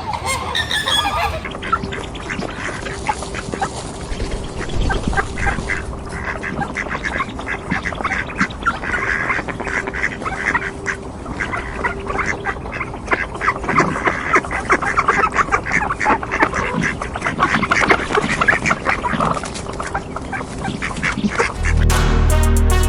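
A flock of flamingos honking and chattering: many overlapping goose-like calls. Music with a beat cuts in near the end.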